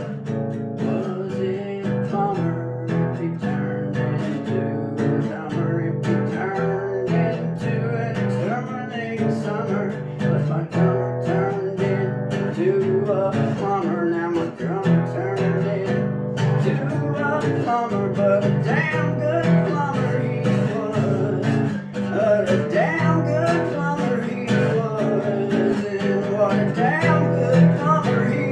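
Acoustic guitar music: chords strummed continuously through a section of a song.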